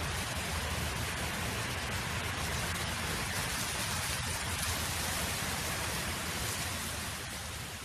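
Steady wind noise: an even, full hiss with a low rumble underneath, which begins to fade out near the end.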